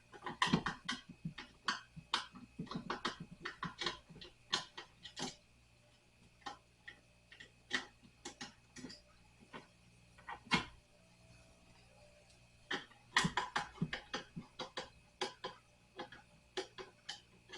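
Screwdriver work on a nightstand's screws: irregular runs of sharp clicks and ticks, sparser in the middle and busier again near the end.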